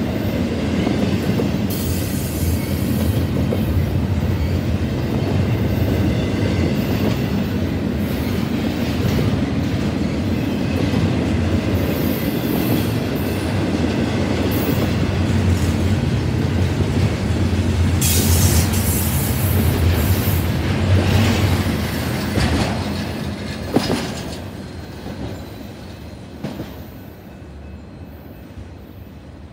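Double-stack intermodal well cars of a freight train rolling past close by: a steady rumble and clatter of steel wheels on the rails. The noise fades from about 22 seconds in as the end of the train goes by, with a sharp knock near 24 seconds.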